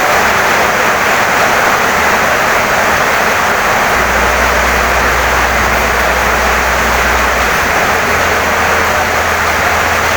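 Heavy rain pouring steadily on a wooden house, a dense, even hiss. A low steady rumble joins underneath about four seconds in.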